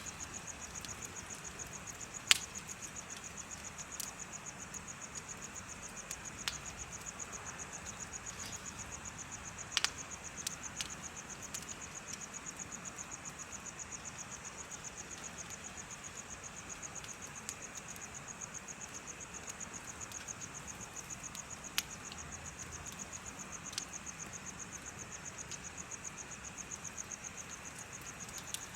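Crickets chirping in a steady, rapid, high-pitched pulsing trill, over the soft hiss of a wood bonfire whose crackles give occasional sharp pops, the loudest about two seconds in and again near ten seconds.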